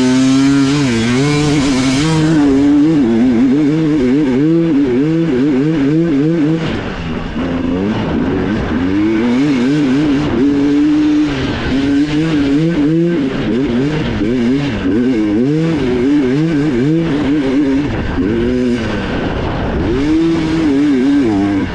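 Dirt bike engine heard on board, revving up and down rapidly as the rider works the throttle and shifts, the pitch rising and falling every half second or so, with brief easings of the throttle about seven seconds in and again near the end.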